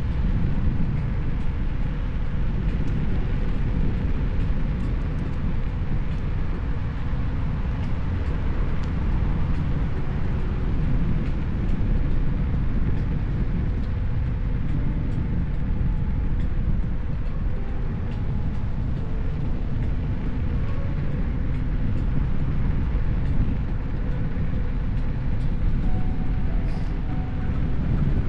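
Steady low rumble of wind on the microphone and tyre noise from riding a Kugo Kirin U2 electric unicycle.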